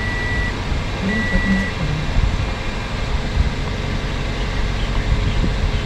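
2005 Toyota Corolla's 1.8-litre four-cylinder engine idling steadily just after an oil and filter change. Two high electronic beeps about a second apart sound at the start, then stop.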